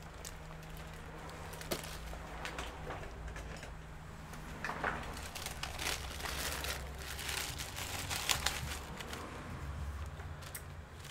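Scattered light clicks, taps and scratchy rustling of hands working on the parts of a disassembled laptop, with a few sharper ticks, over a steady low hum.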